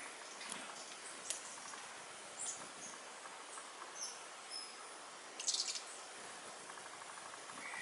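Faint outdoor hiss with scattered short, high-pitched bird chips, and a quick run of high chirps about five and a half seconds in.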